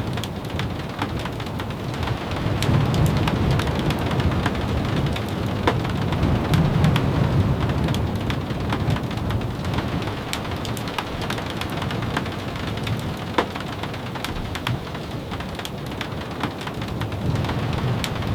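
Steady rain with many scattered sharp ticks of drops. Under it runs a low rumble that swells a few seconds in and again about seven seconds in.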